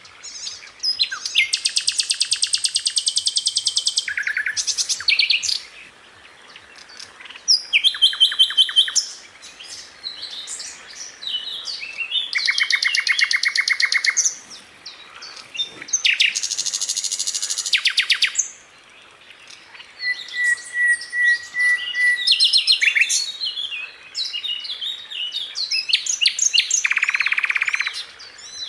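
Sikatan londo flycatcher singing: several fast rattling trills (the "rolls"), each one to three seconds long, broken up by sharp high chirps (the "shots"). One steady held whistle comes about twenty seconds in.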